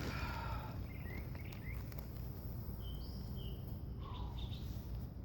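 Small birds chirping overhead: scattered short calls and quick gliding notes, one falling note about four seconds in, over a steady low background hum.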